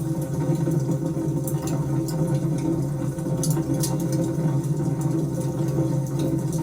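Wood fire burning in a fireplace: sharp crackles and pops, several a second, over a steady low rumble.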